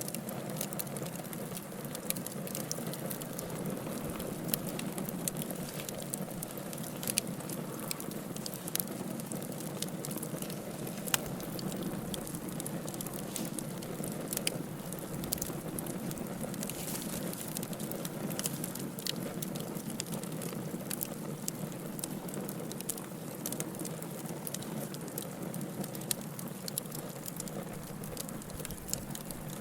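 Wood fire in a fireplace crackling, with a steady soft hiss under frequent sharp pops and snaps; one louder pop partway through.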